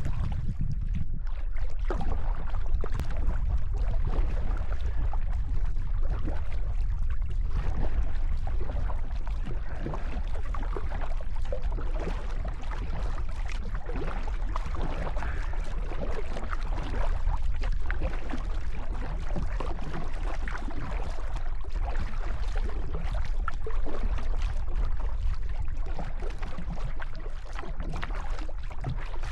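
Water sounds around a kayak on a lake: irregular small splashes and lapping over a constant low rumble of wind on the microphone.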